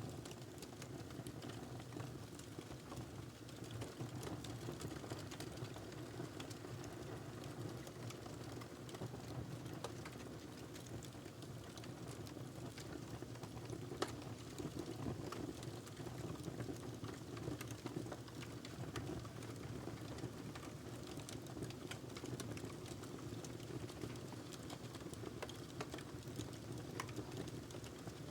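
Wood fire burning in a fireplace: a steady low rustle of flames under frequent small, irregular crackles and pops from the burning log, with one sharper pop about halfway through.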